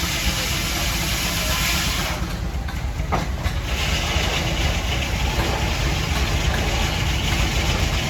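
An engine running steadily at low speed with a constant low rumble. A hiss over it falls away about two seconds in and returns about four seconds in.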